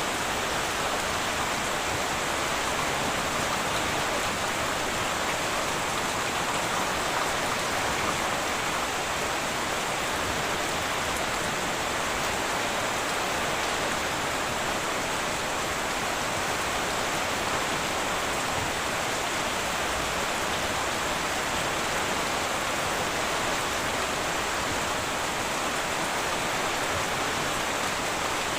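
Heavy rain falling steadily on a metal tin roof, an even, unbroken hiss of drops.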